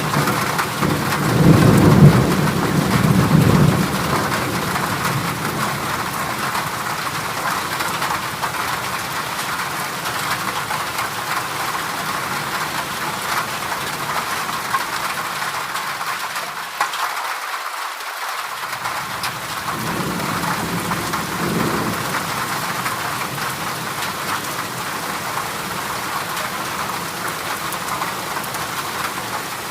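Heavy rain drumming steadily on a corrugated zinc roof, a dense even patter. Low rumbles swell up a couple of seconds in and again about twenty seconds in.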